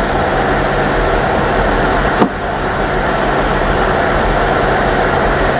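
Diesel train engines idling, a steady low rumble and hum, with one sharp click about two seconds in.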